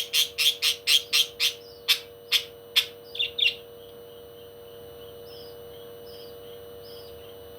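A parrot giving a fast run of loud, sharp calls, about five a second, that slow and stop about three and a half seconds in. Faint, short chirps keep repeating after that.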